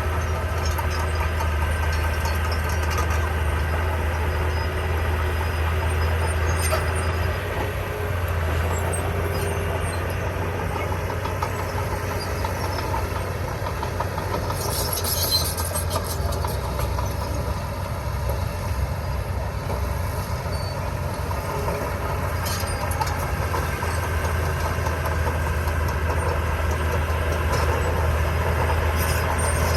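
Komatsu D20P bulldozer's diesel engine running steadily under load as it works. There is a brief high-pitched hiss about halfway through.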